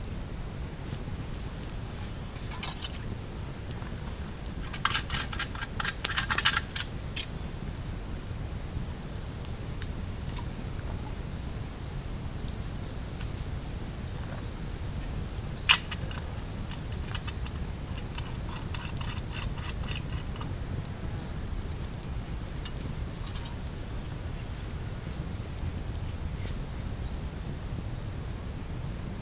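An insect, cricket-like, chirping steadily in high, evenly spaced pulses over a low outdoor rumble. A quick cluster of clicks and crackles comes about five seconds in, and a single sharp snap comes about halfway through.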